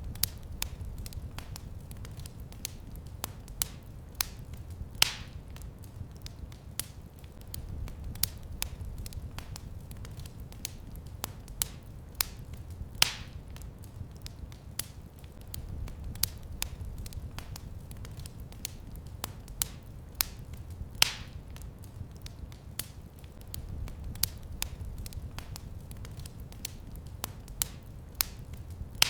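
Wood fire in a fireplace crackling steadily over a low rumble of flame, with a few louder pops about eight seconds apart.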